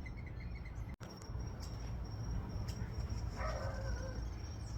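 Outdoor ambience: a thin, steady, high-pitched insect trill that sets in about a second in, over a low rumble of wind. A brief faint call near the end.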